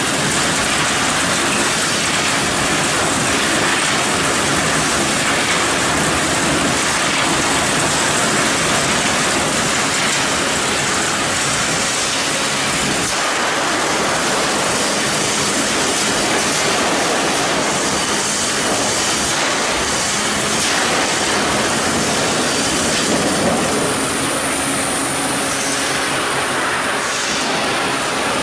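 Steady, loud mechanical noise of running machinery, an even clatter with faint steady tones.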